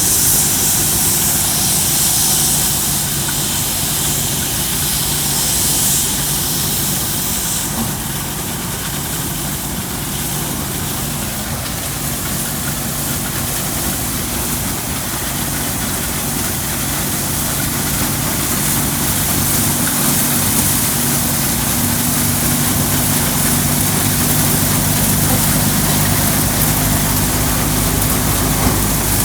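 Engine running steadily as it powers a threshing machine, with a loud rushing hiss over it that eases about eight seconds in.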